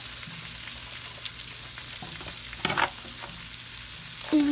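Lobster tails searing in hot olive oil in a pan, a steady sizzle, with a brief louder sound about two-thirds of the way through.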